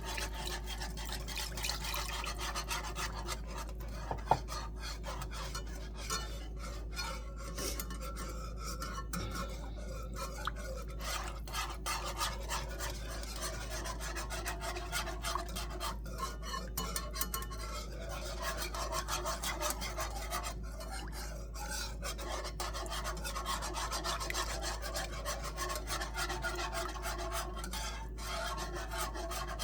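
A wire whisk scraping and swishing steadily around a large skillet as chicken broth is whisked into a flour-and-butter roux for gravy, with one sharp click about four seconds in.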